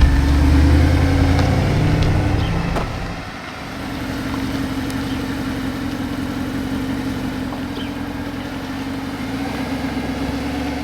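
Mercedes-Benz SLS AMG's 6.2-litre V8 pulling away: it runs loud under throttle for the first couple of seconds, drops off sharply about three seconds in, then settles into a steady, quieter note at light cruising speed.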